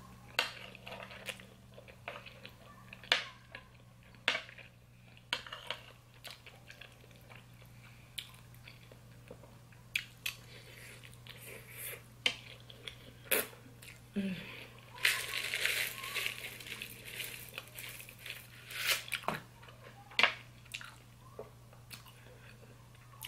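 Close-miked eating sounds: chewing mouthfuls of macaroni and cheese, with scattered sharp clicks of a fork against the plate. About fifteen seconds in comes a denser rustling patch lasting about two seconds.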